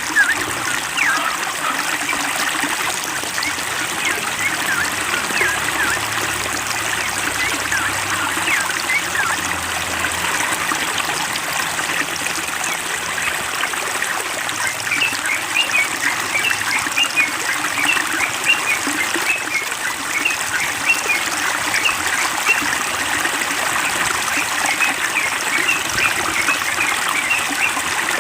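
Water trickling and running steadily, like a small stream, with small birds chirping in short repeated calls over it, busiest in the second half.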